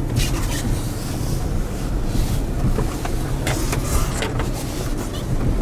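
Pickup truck driving on a snow-covered road, heard from inside the cab: a steady low rumble of engine and tyres, with scattered short crackles.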